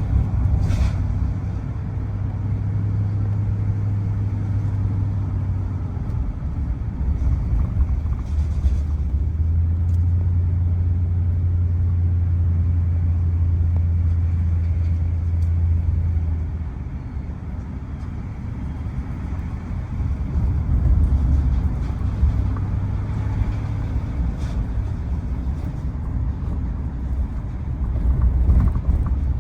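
Vehicle engine and road noise while driving: a steady low drone that shifts in pitch several times as the engine speed changes.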